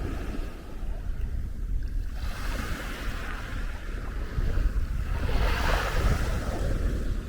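Small waves washing in on a sandy beach, two swells of surf hiss about two and six seconds in, over a constant low rumble of wind buffeting the microphone.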